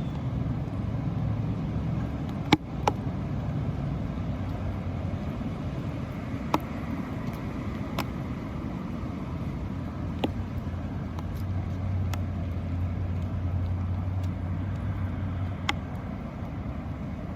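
Steady low outdoor rumble, swelling a little past the middle, with about six sharp ticks scattered through it.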